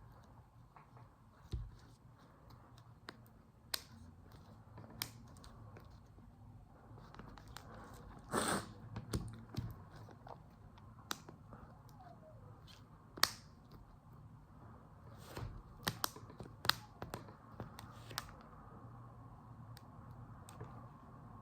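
Scattered small clicks and taps from handling a smartphone and repair tools during a screen replacement, with a brief louder rustle about eight seconds in.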